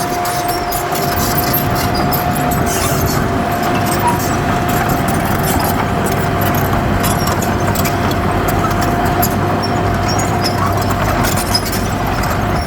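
Heavy earthmoving machinery's diesel engine running steadily, with a constant high whine over the rumble and light scattered clicks and rattles.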